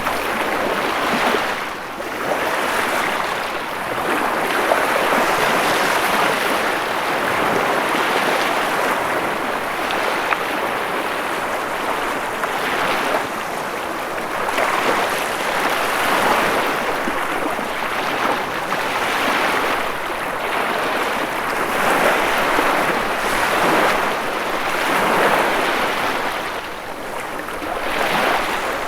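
Ocean surf: a continuous rush of breaking waves that swells and eases gently every few seconds.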